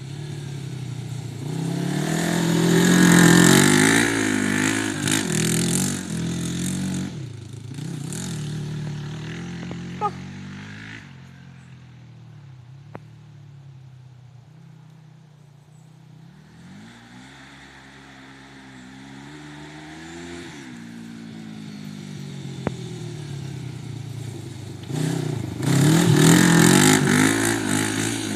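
Quad powered by a Kawasaki GPZ 500 parallel-twin motorcycle engine, revving up and down as it is ridden. It is loud near the start and again near the end, and fainter in between.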